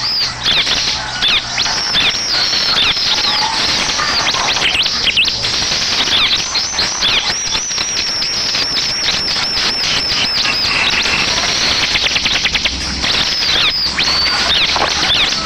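Bar-winged prinia (ciblek) song used as a lure recording: rapid runs of high, sharp chirps, each sweeping down in pitch, thickest in the middle.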